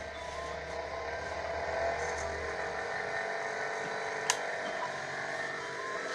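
Vigorein 6-inch bench grinder's motor running steadily after being switched on, a continuous whir with a low hum that drops away about three seconds in. A single sharp click about four seconds in.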